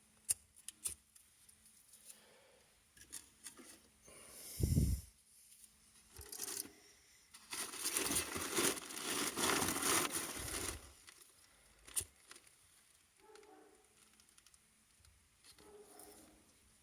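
Paper being crumpled and torn by hand, with scattered clicks and knocks, while a fire is being laid and lit in a brick fireplace; the longest spell of crumpling comes about halfway through, with a sharp click a second after it.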